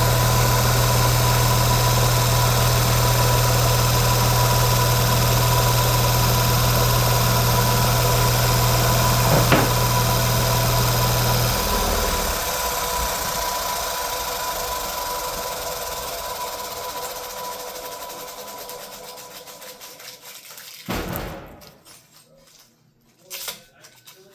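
Electric motor of a power sanding tool running steadily with a hum, then switched off about halfway through and coasting down gradually to a stop. A knock sounds near the end, followed by a few light clicks.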